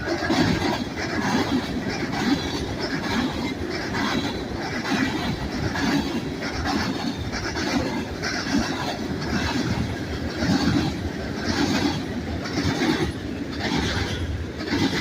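Manifest freight train cars rolling past, their wheels hammering in a steady rhythm over a switch frog, roughly one bang a second over a continuous rumble.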